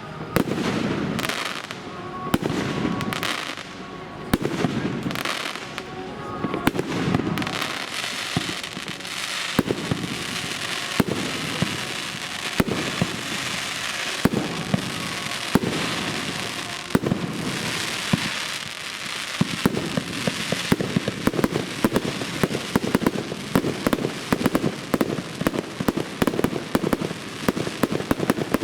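Fireworks display: big shells booming about every second and a half, then a long, dense run of crackling and popping from many small bursts that thickens toward the end.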